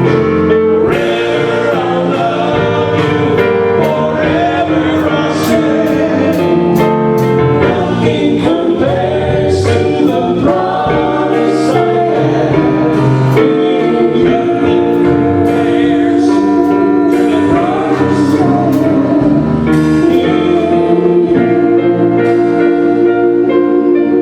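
Gospel music: voices singing a slow song with instrumental accompaniment.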